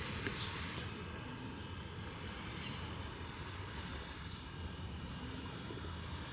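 Short high chirps from a bird, repeated about once or twice a second, over a steady low outdoor background noise.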